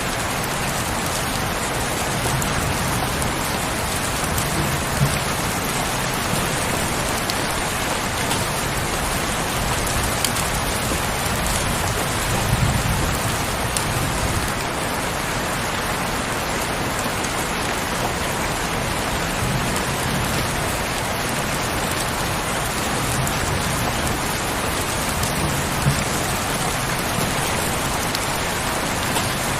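Heavy, steady rain falling and splashing on surfaces, a dense even hiss with an occasional louder drop hit.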